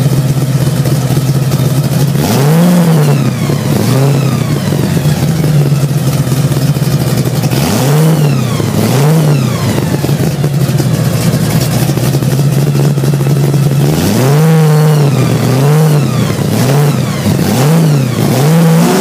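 Supercharged 427 big-block Chevy V8 running at a low, steady speed, heard from inside the cabin, with short throttle blips that each rise and fall within about a second: a couple in the first few seconds, two around the middle, and a quick run of five near the end.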